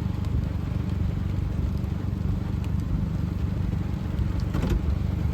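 Car driving in a thunderstorm, heard from inside the cabin: a steady low rumble of road and engine noise, with a light patter and scattered ticks of rain.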